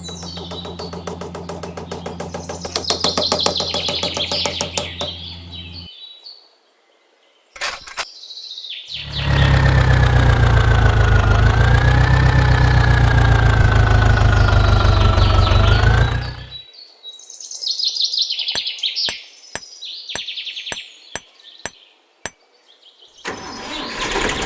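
Birds chirping over a steady low hum. Then a loud motor drone runs for about seven seconds, dipping and rising in pitch, followed by a series of sharp clicks with more chirping.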